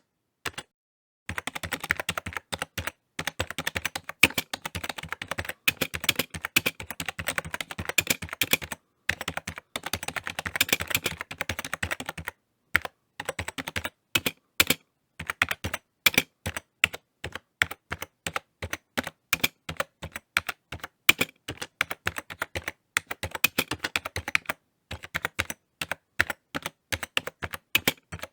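Typing on a computer keyboard: fast runs of key clicks broken by short pauses, thinning to slower, separate keystrokes near the end.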